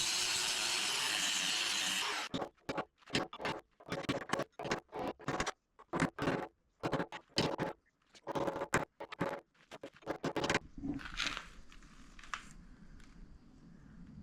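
Chisel being driven against the steel welds holding a skid steer bucket's tooth bar. A steady rasping stretch of about two seconds is followed by many short bursts, roughly two a second, which stop about ten and a half seconds in.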